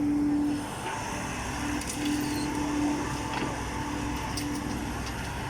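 Heavy diesel earthmoving machinery running, with a steady whine that cuts in and out, and a few sharp knocks of soil and rock.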